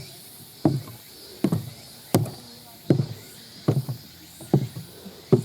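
Footsteps of a hiker walking down a mountain trail, about one step every 0.8 s. Each step lands with a thud and a sharp click, the loose monitor of an old camcorder clattering.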